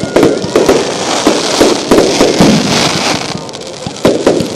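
Fireworks going off in a rapid string of bangs and crackles, easing off briefly about three and a half seconds in, then picking up again.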